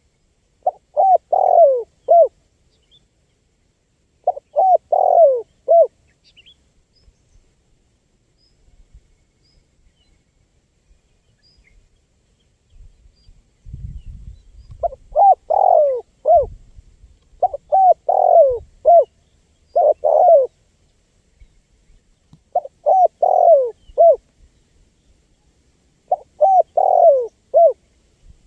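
Spotted dove cooing in short phrases of three or four falling coos, repeated every few seconds, with a pause of several seconds in the middle.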